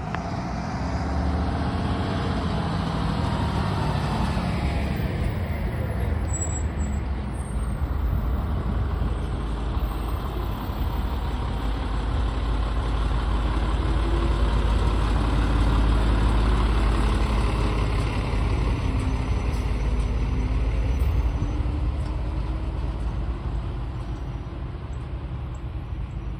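Fire engine's diesel engine running under load as the truck drives off, its pitch rising and falling with the revs, loudest about halfway through.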